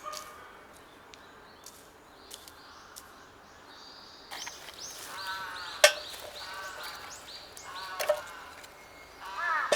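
Wild birds calling in woodland: repeated short high chirps, then from about halfway on runs of arched, down-curving calls. A single sharp click near the middle is the loudest sound.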